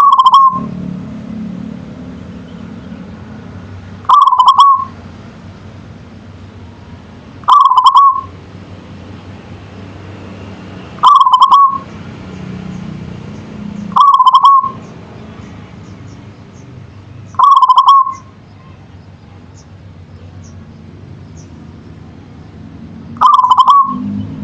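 Zebra dove (perkutut) singing: a short cooing phrase repeated about every three to four seconds, seven times, over a steady low hum.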